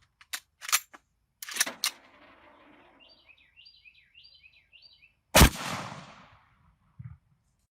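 A single shot from a custom Mosin-Nagant bolt-action rifle about five and a half seconds in, the loudest sound, with a trailing echo. Before it come a few sharp clicks and a louder clack, and a bird chirps four times.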